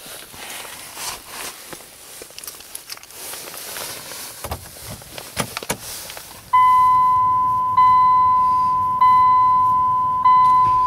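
Wind noise and scattered knocks and steps. About six and a half seconds in, a 2009 Dodge Journey's warning chime starts: a steady high chime repeating about every 1.2 seconds, four times.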